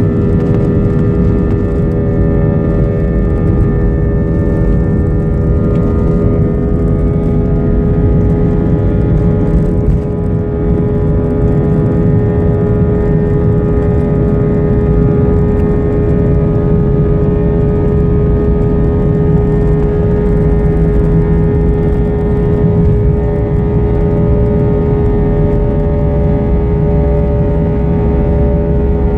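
Jet airliner engines running loud and steady during takeoff: a constant whine of several pitches over a deep rumble.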